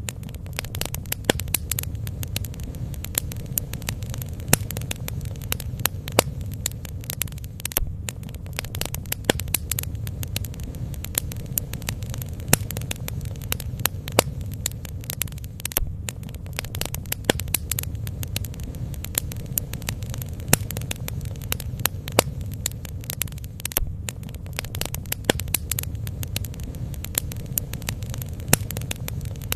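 Bonfire burning, with irregular sharp crackles and pops over a steady low rumble.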